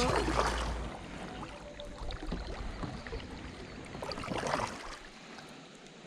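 Kayak on a river: faint water noise around the hull, with a short swish of water about four and a half seconds in. Wind rumbles on the microphone in the first second.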